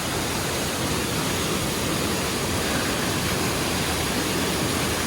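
Waterfall's water pouring down, heard close up as a steady, even rush with no breaks.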